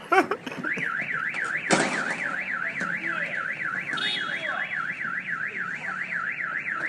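Car alarm sounding: a warbling siren tone sweeping up and down about four times a second, starting just under a second in. A sharp knock is heard about two seconds in.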